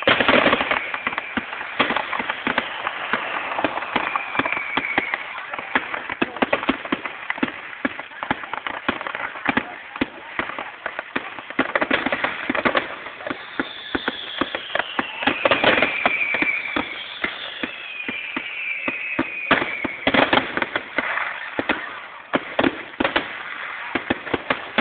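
Aerial fireworks display: a dense, irregular run of bangs and crackling, with several whistles sliding downward in pitch about halfway through, recorded through a phone's narrow-band microphone.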